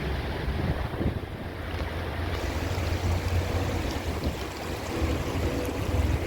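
Wind buffeting the microphone, a steady rumbling noise over a wash of outdoor air and water noise. A faint steady hum comes in near the end.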